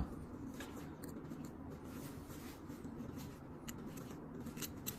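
Faint scratching and a few light, sharp clicks of hands working the cotton filling and small metal parts of a lighter, over a low steady room hum.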